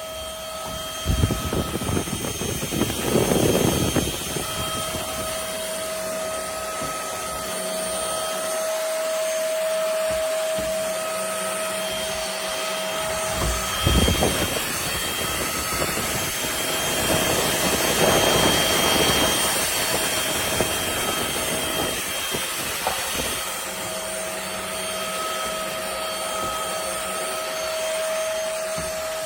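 Trucozie cordless stick vacuum running with a steady high whine, with louder rushes of air swelling in several times.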